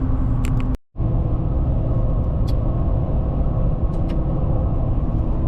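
Steady low road and engine rumble heard from inside a moving truck's cab, broken by a brief total dropout under a second in, with a couple of faint clicks.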